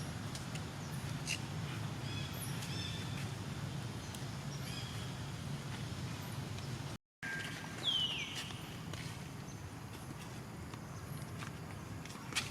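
Outdoor ambience with a steady low hum, scattered clicks and short high chirps. Just past halfway the sound cuts out for a moment, then a single high call falls in pitch.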